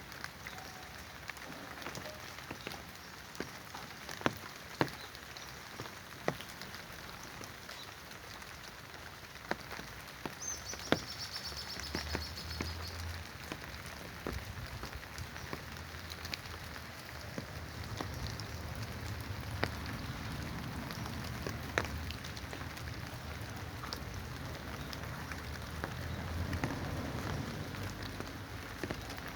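Moderate rain falling steadily on surfaces, with scattered louder drops ticking close by.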